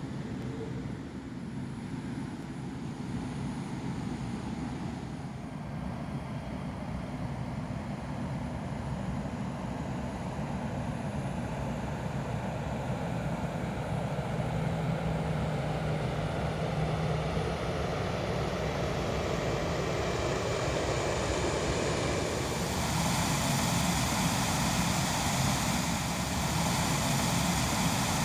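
Airplane engine noise, steady and growing gradually louder, with a brighter, hissier edge coming in about three-quarters of the way through.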